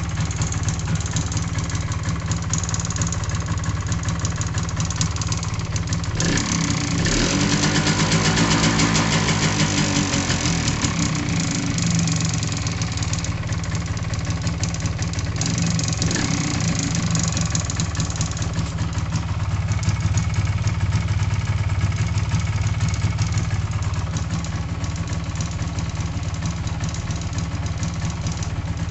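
MZ ETZ 250's single-cylinder two-stroke engine idling with a rattling clatter, the rattle the owner is chasing. It is revved up and back down briefly about six seconds in, and blipped lightly again near 16 seconds.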